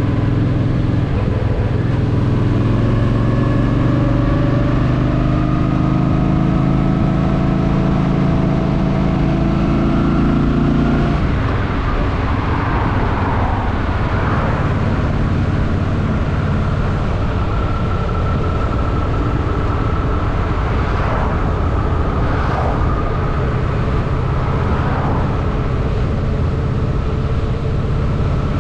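Honda Shadow VT750's V-twin engine running under way with wind rush on the microphone, its note pulling strongly and rising slowly. About eleven seconds in the engine note drops away to a quieter, lower running.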